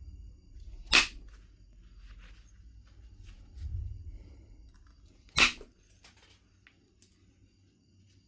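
Two sharp knapping strikes on Knife River flint, about four and a half seconds apart, with light clicks and taps of the stone being handled between them.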